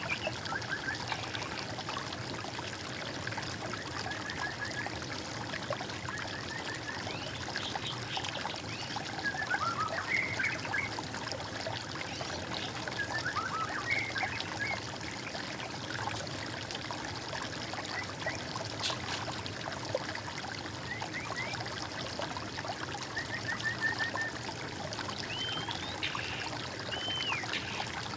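Water trickling steadily, with several songbirds calling over it in scattered short chirps, rising and falling whistles and quick trills.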